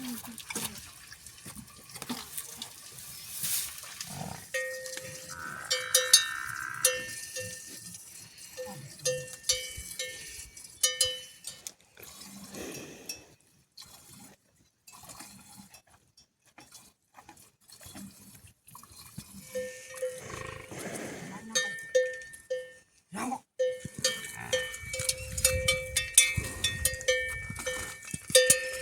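A bell on livestock clanking irregularly as the animal moves, in two spells with a quiet gap of several seconds midway.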